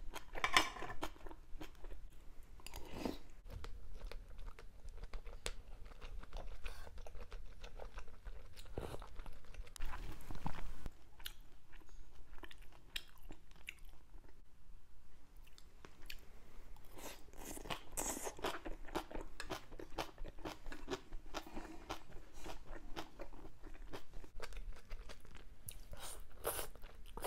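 Close-miked eating sounds: chewing and crunching of food from a spicy fish-roe hot pot, with many small wet mouth clicks.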